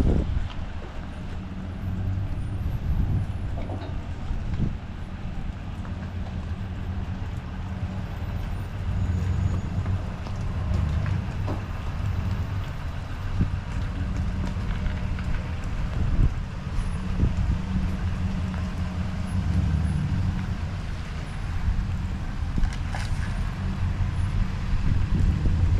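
A truck engine running with a steady low hum that rises and falls slightly in speed, with a few short knocks.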